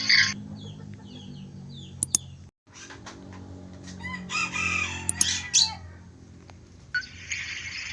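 Bird calls: a few short high chirps, then a louder, longer call about four seconds in that lasts around a second and a half.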